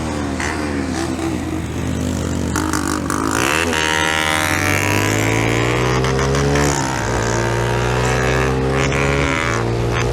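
125 cc single-cylinder motorcycle engine running under load, its pitch climbing as it accelerates. The pitch drops suddenly about seven seconds in, like a gear change, then climbs again.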